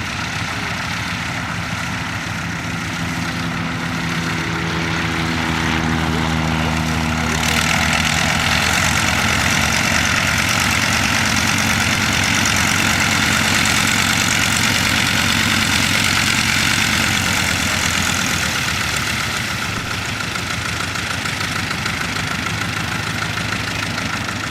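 An engine running steadily, then growing louder with a strong hiss from about seven seconds in, easing off again after about eighteen seconds.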